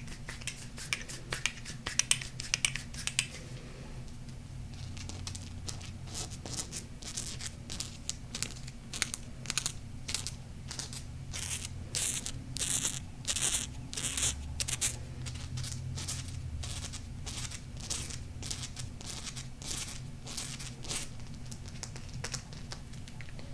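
Golden crystals being tapped and scratched: quick clusters of crisp taps and scrapes, loudest about two seconds in and again around twelve to fourteen seconds in, over a faint steady low hum.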